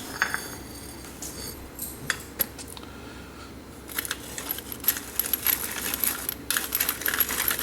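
Crank-handled solid brass pepper mill grinding black peppercorns through its hardened steel mechanism: a quick, dense run of crisp metallic clicks and crackles that starts about four seconds in, after a few scattered clicks.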